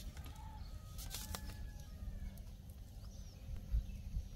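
Faint outdoor background: a few short, thin bird calls over a steady low rumble, with some light clicks.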